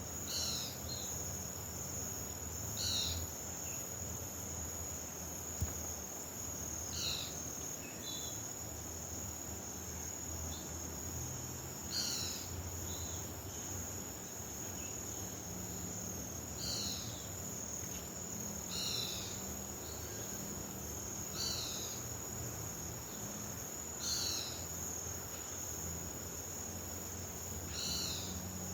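Crickets trilling steadily at a high pitch, with a short falling call repeating every two to four seconds over a low steady hum.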